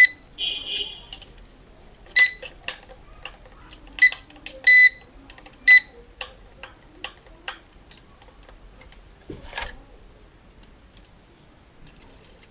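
Short electronic beeps from a toy, five or so spread over the first six seconds, one of them a little longer, among small plastic clicks of handling, with a louder rustle near the end.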